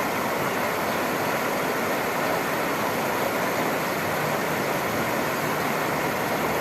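Steady, even rushing noise with no separate events or calls.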